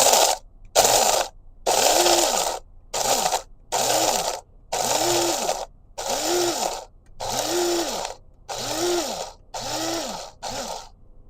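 Electric coffee grinder run in about ten short pulses, its motor spinning up and winding down each time as the beans are ground.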